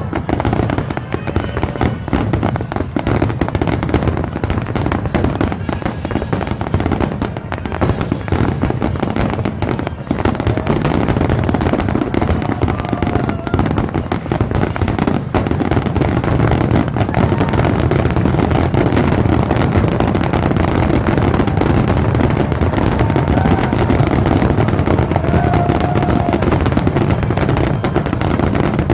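Aerial fireworks display: a dense, unbroken barrage of booming bursts and crackles, growing steadier and a little louder from about halfway through.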